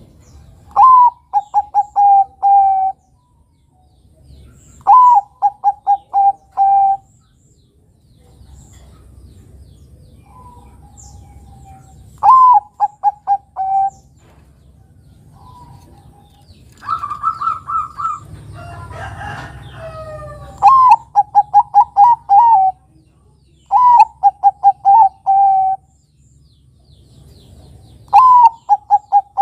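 Zebra doves (Bangkok-type perkutut) cooing: about six loud phrases, each a rising opening note followed by a quick run of short, clipped notes and a slightly longer final note. A different, harsher call comes in the middle.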